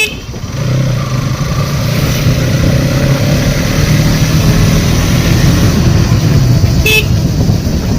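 Motorcycle engine running on the move, picking up and getting louder about a second in, then holding steady, with road and wind noise. A click at the very start and a short high beep near the end.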